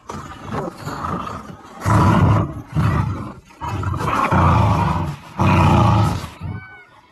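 Akita dogs growling in rough play, in several loud bouts of about a second each. A short high whine comes near the end.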